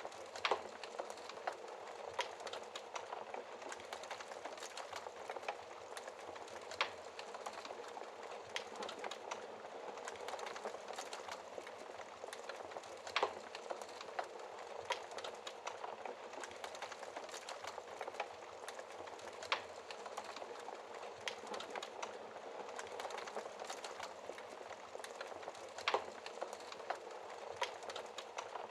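Wood fire crackling in a fireplace: a continuous patter of small crackles, with a sharper, louder pop about every six seconds.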